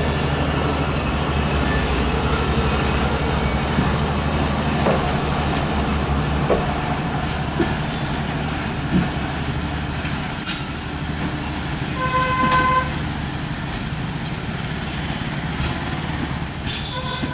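Passenger coaches rolling past on the rails: a steady rumble with wheel clatter and a few sharp knocks over the rail joints, growing quieter in the second half as the train draws away. A horn sounds briefly about twelve seconds in.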